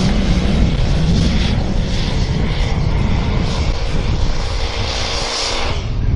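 Loud engine of a pulling vehicle running hard, a steady rumble with hiss over it throughout.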